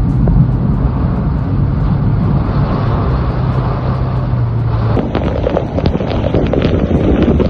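A steady low engine hum under a wash of noise from a vehicle in the storm. About five seconds in, the sound cuts to louder, irregular buffeting with crackles, like wind and rain hitting the microphone.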